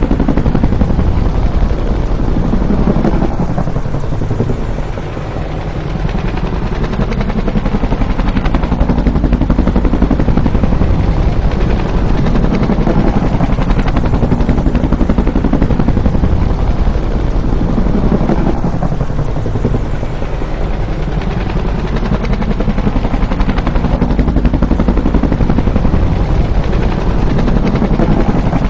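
Bell UH-1 Huey helicopter's two-blade main rotor beating steadily and loudly, with its tone swelling and fading in slow sweeps as it passes, and a brief dip in level about five seconds in.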